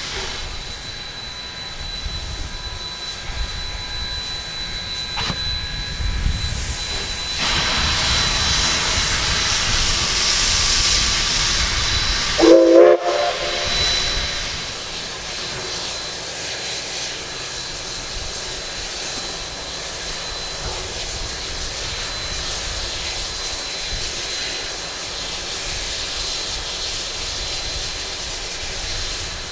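Coal-fired steam locomotive hissing steam at rest, the hiss swelling louder for several seconds near the middle. A short steam whistle blast sounds about halfway through.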